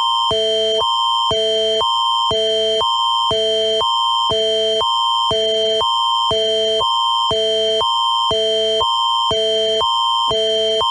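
Canadian Alerting Attention Signal of an Alert Ready emergency broadcast: a loud electronic alarm holding one constant high tone while two lower chords alternate about every half second. It announces an Environment Canada severe thunderstorm warning.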